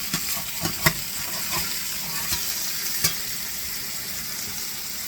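Butterflied chicken frying in a hot pan with a steady sizzle, while a metal spatula scrapes and knocks against the pan, working the stuck chicken loose; sharp knocks about a second in and again about three seconds in.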